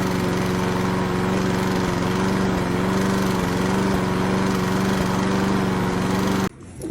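Small petrol lawn mower engine running at a steady speed, cutting off suddenly near the end.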